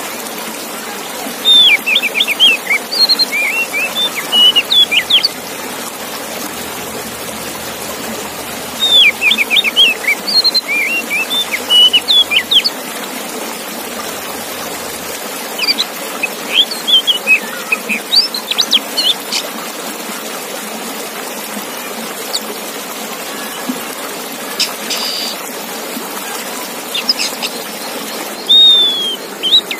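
Male Oriental magpie-robin (kacer) singing in repeated phrases of quick, high whistles and chirps, each a few seconds long with short pauses between, over a steady hiss.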